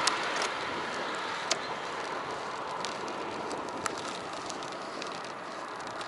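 Steady rush of wind and tyre noise from a moving bicycle, picked up by an action camera mounted on the bike, with a few sharp clicks and rattles scattered through it.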